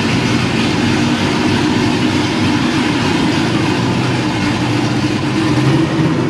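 Superbird tribute muscle car's engine running steadily at a loud, even idle.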